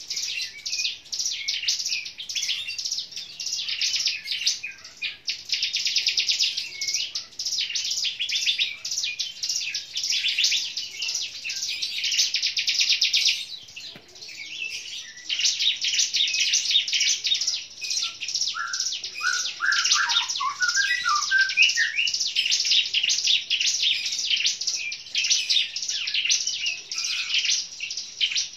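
Prinias (ciblek) singing fast, high-pitched trilling chirps, a long rapid run of repeated notes with a brief lull about halfway, and a cluster of lower, falling notes shortly after.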